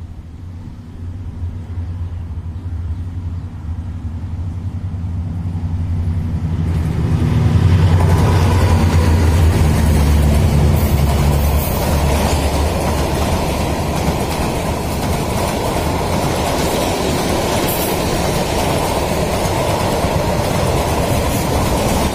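A diesel-hauled train approaching with a steady low engine drone, then passing close by: from about seven seconds in, a loud, dense rumble of carriage wheels on the rails that holds on.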